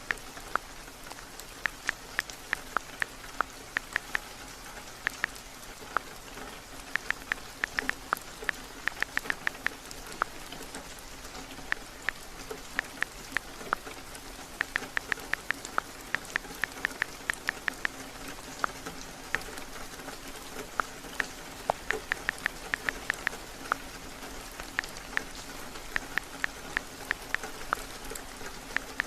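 Steady rain falling, with runs of quick, sharp clicks every few seconds.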